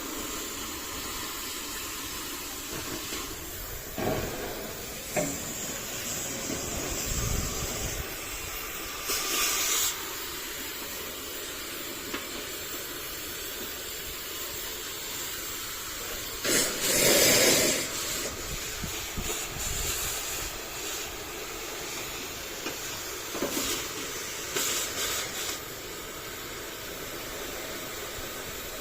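Gas cutting torch hissing steadily while cutting up a diesel locomotive engine. The hiss swells into short, louder bursts several times, the loudest about two-thirds of the way through.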